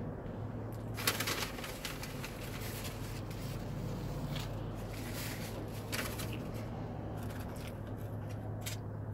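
Chewing a mouthful of burger, with short crackles of a paper napkin and wrapper, the sharpest about a second in. A steady low hum fills the car cabin underneath.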